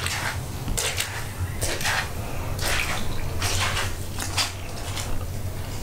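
Water splashing and trickling in irregular bursts, about one or two a second, over a steady low hum.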